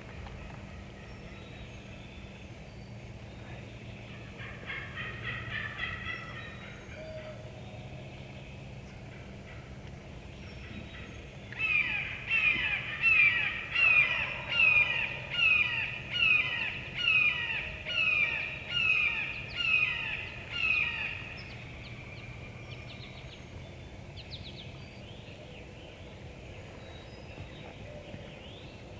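Turkey yelping: a loud series of about a dozen yelps, roughly one a second, running for about ten seconds. A fainter quick run of notes comes first, about four seconds in.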